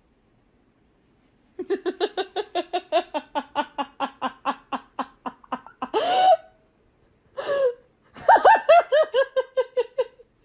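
A person laughing hard in quick rhythmic bursts, about four or five a second, pausing for breath, then breaking into a second run of laughs that fall in pitch.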